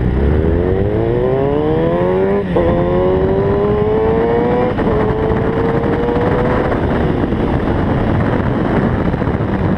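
Kawasaki ZX-6R inline-four motorcycle engine accelerating hard: the pitch climbs, drops sharply with an upshift about two and a half seconds in, climbs again and shifts up once more near five seconds, then settles into a steady cruise with wind rushing past.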